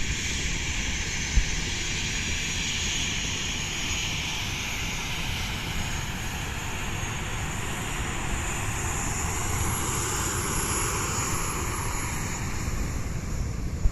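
An airplane's engines running steadily and fairly loudly, with the pitch of the noise drifting slowly.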